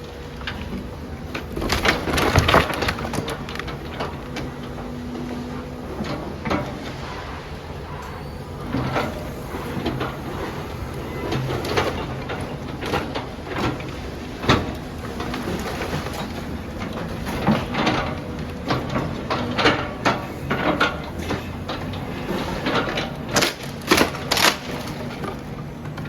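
A demolition machine is breaking up a building, with irregular cracks, crunches and knocks of material being crushed and falling over the steady hum of its engine. The loudest crashing comes about two seconds in, and another cluster near the end.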